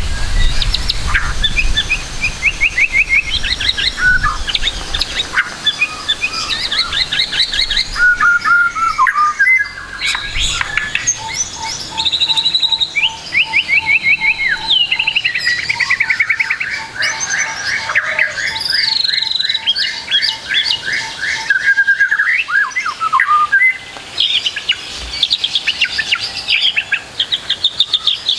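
White-rumped shama singing a long, varied song packed with mimicked phrases: fast trills and whistled phrases, with a steady run of short repeated lower notes through the middle.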